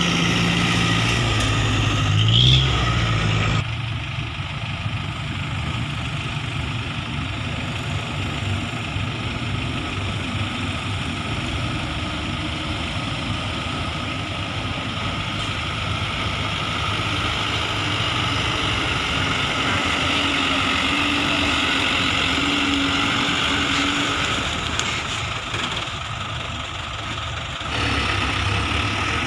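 Truck engine running, with steady driving noise. The engine note rises briefly about two seconds in, and the sound changes abruptly near four seconds and again near the end.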